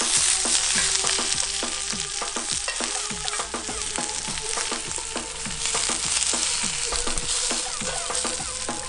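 Onions, tomatillos and tomatoes frying hot in oil in cast iron pans over a propane burner: a steady loud sizzle with many quick, sharp pops and crackles of spitting oil.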